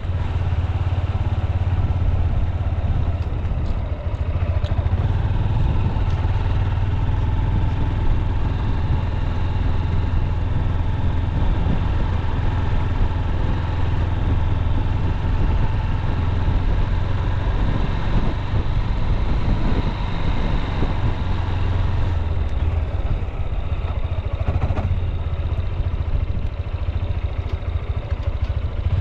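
Honda CB200X's single-cylinder engine running steadily as the motorcycle cruises at an easy pace, a continuous low drone without big revs.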